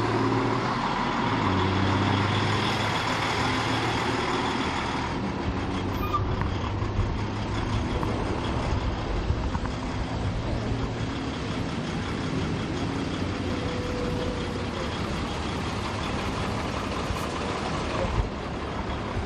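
Large diesel rally truck engines running, a steady low engine hum with a rougher, noisier sound; the tone shifts about five seconds in.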